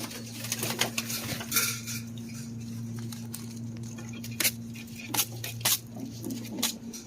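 Irregular sharp taps and clinks, about a dozen scattered through, over a steady low hum.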